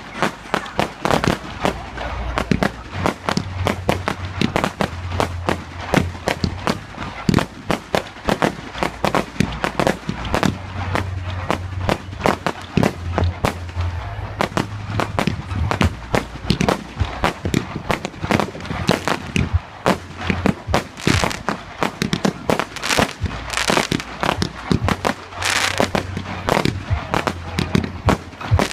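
Fireworks display: a rapid, continuous barrage of bangs and crackles, growing denser and brighter in the last few seconds.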